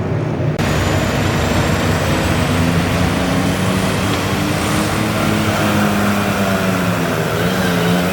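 Modified garden tractor pulling engine running hard at high revs, its pitch holding fairly steady, with a faint high whine slowly rising above it.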